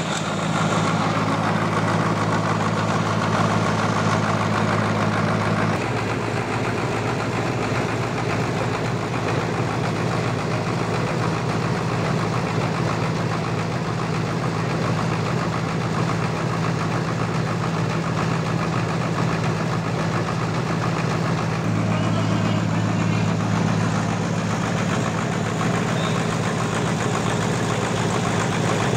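A sawmill's engine running steadily, its note shifting slightly about six seconds in and again about twenty-two seconds in.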